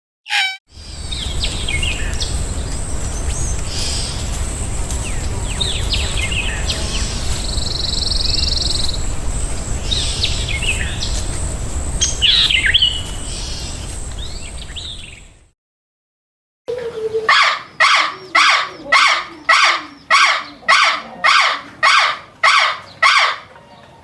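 Small birds chirping in short, sweeping calls over a steady low outdoor rumble, which stops suddenly. After a second of silence a different bird call repeats loudly about twice a second.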